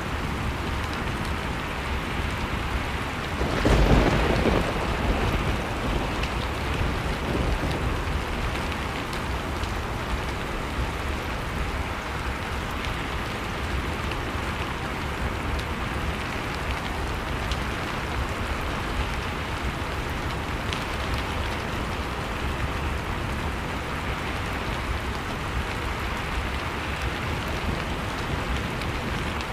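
Blizzard wind with fireplace crackling, a steady rushing noise with scattered small crackles. A louder surge rises about four seconds in and dies away over a second or two.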